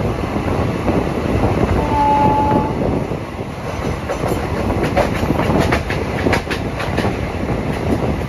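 Running noise of a moving express train, with a short high steady tone about two seconds in and a run of sharp wheel clatters over rail joints or points from about four to seven seconds in.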